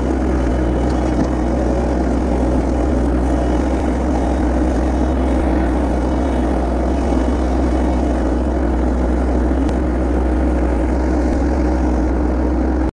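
An engine running steadily at one speed, a continuous low drone that does not change.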